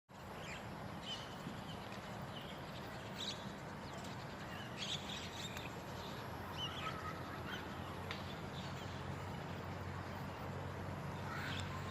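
Birds calling in short, scattered chirps, over a steady low hum.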